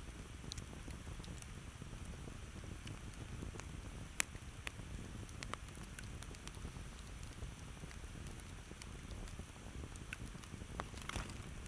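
Campfire burning, wood crackling and popping in scattered sharp snaps over a low steady rumble of flame, with one louder pop about four seconds in.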